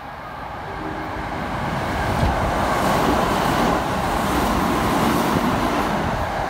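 Kintetsu express electric train (1230 series coupled with 5200 series) running through the station past the platform. Its wheel and track noise swells over about two seconds, then stays loud and steady as the cars go by.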